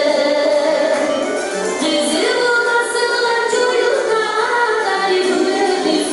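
A woman's voice singing with music, a folk-style song performance.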